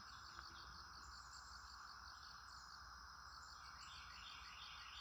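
Faint outdoor ambience: insects trilling steadily with a high pulsing tone, and small birds chirping faintly, more of them in the last second or so.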